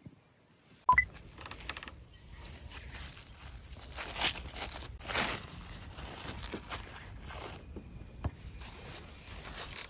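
A sharp click about a second in, then rustling and crinkling handling noises, with louder swells about four and five seconds in.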